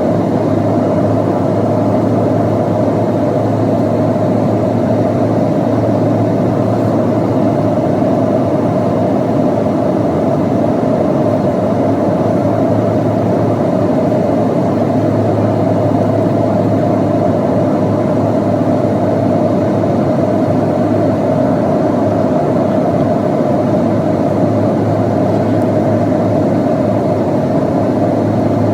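Steady cabin noise of a Boeing 737-800 in flight, heard from inside the passenger cabin: a constant rush of airflow and its CFM56-7B engines, with an even low hum underneath.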